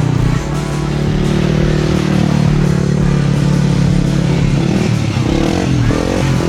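Quad bike engine running steadily, with music playing alongside.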